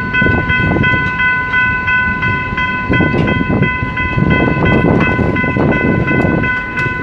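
Passenger coaches rolling past close by, wheels rumbling and knocking over the rail joints. Over it a level-crossing warning alarm rings continuously in quick even pulses, about three a second.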